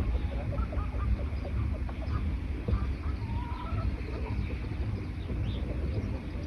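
Birds calling: short scattered chirps and brief whistled notes over a steady low rumble.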